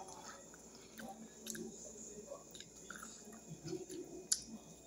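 A person chewing food, faint and quiet, with small scattered clicks and one sharper click about four seconds in.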